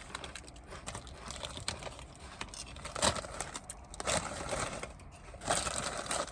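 Crisp crunching and crinkling as crunchy onion-ring snacks (Funyuns) are eaten, in a quick irregular run of sharp crackles, louder about three seconds in and again near the end.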